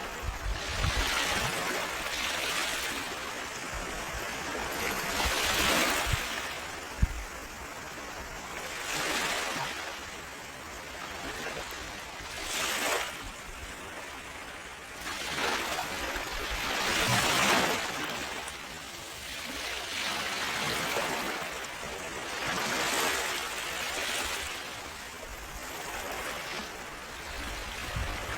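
Ocean waves washing in slow swells every few seconds over a steady hiss of rain, with one sharp pop from a crackling campfire about seven seconds in.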